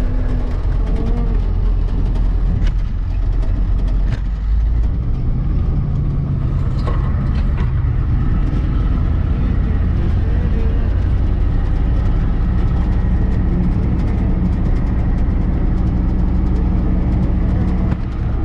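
Diesel engine of a tow truck running steadily, its pitch stepping up about five seconds in, with a few light clicks and rattles over it. The truck's exhaust leaks.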